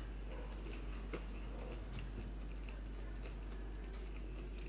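Quiet chewing of a mouthful of chickpeas and rice, with a few faint clicks over a steady low hum.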